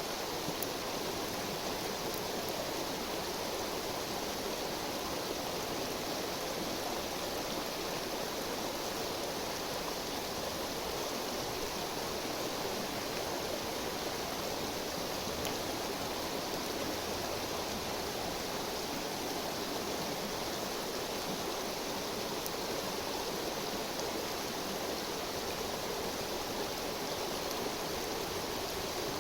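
Steady rushing and babbling of a river, an even wash of water noise that does not change.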